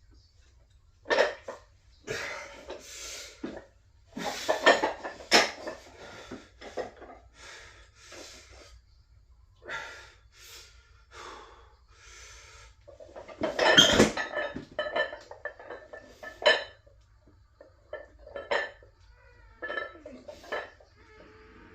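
Irregular metallic clanks and clinks, several with a brief ring, with the loudest cluster about two-thirds of the way through.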